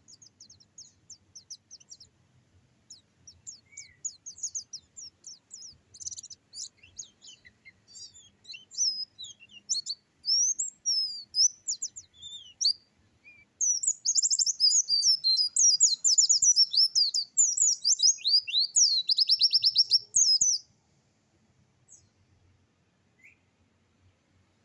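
A songbird, the kind bird-keepers call 'dakun', singing a varied song of quick, high chirps and sweeping notes. About halfway through it breaks into a long, loud run of rapid notes that stops abruptly some six seconds later.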